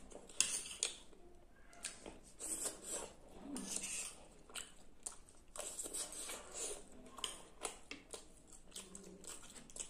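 Close-miked eating: chewing and wet mouth sounds on Maggi noodles and macaroni, mixed with a fork clicking and scraping against the plate, in irregular short crackles.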